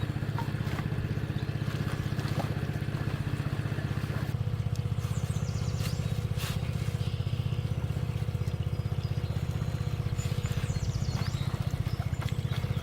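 A small engine running steadily at an even speed, with a few short high chirps over it about five and eleven seconds in.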